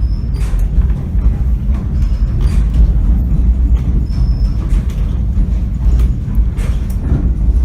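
Passenger train running along the rails, heard from aboard the car: a steady low rumble with irregular knocks and a few brief high squeaks.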